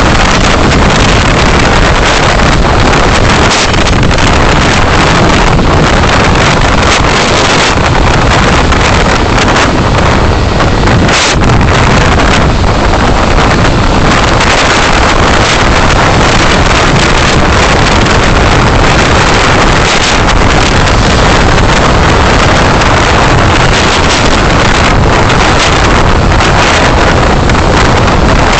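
Loud, steady rush of road and wind noise picked up by a car dashcam's microphone while driving.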